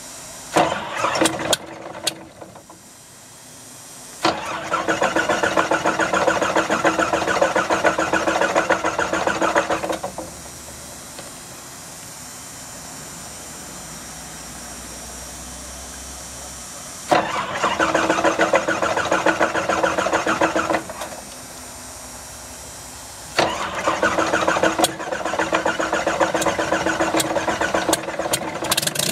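Piston engine of a propeller aircraft cranked by its electric starter in four tries, the longest about six seconds, without catching.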